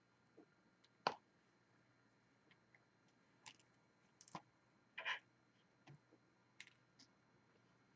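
Scattered small clicks and taps of diamond painting work: the drill pen picking up resin drills and pressing them onto the sticky canvas. The sharpest tap comes about a second in, with a few more close together around four to five seconds in.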